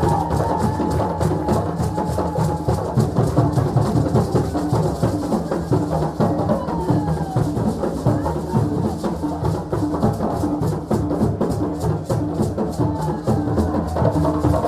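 Ensemble of African drums playing a fast, dense, unbroken rhythm.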